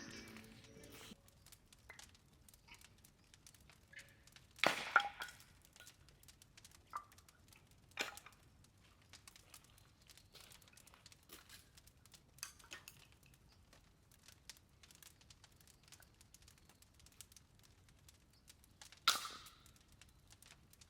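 Quiet, scattered knocks and clinks of objects being handled. A louder clatter comes about five seconds in and another near the end, with a few single ticks between.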